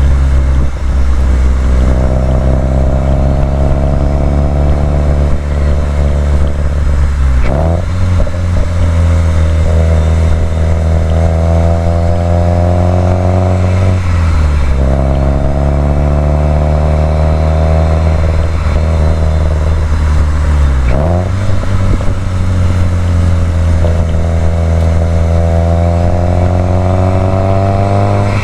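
2018 Subaru WRX STI's turbocharged flat-four engine pulling under load on the move, its note rising slowly in pitch and breaking into a brief drop in revs about every seven seconds, four times in all.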